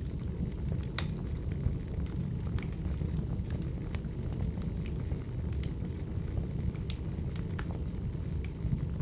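Firewood burning: a steady low rumble of the flames with scattered, irregular sharp crackles and pops.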